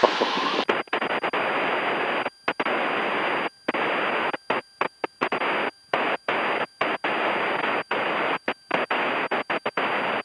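Cessna 172's cabin noise in flight, a steady engine and wind hiss heard through the headset intercom, cutting out abruptly and coming back many times as the intercom squelch closes and opens.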